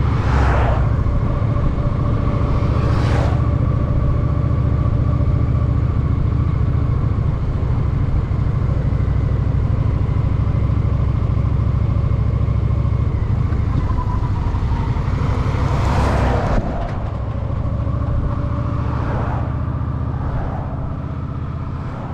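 Honda Shadow VT750's V-twin engine running steadily under way in traffic, with a few brief whooshes. Its loudness drops about two-thirds of the way through as the throttle eases off.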